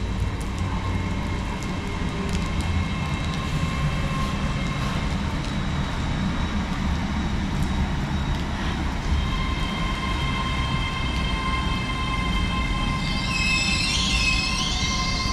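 LNER Azuma Class 800 train running alongside the platform with a steady rumble and a steady whine. In the second half a tone sinks slowly in pitch, and near the end a high wavering squeal comes in.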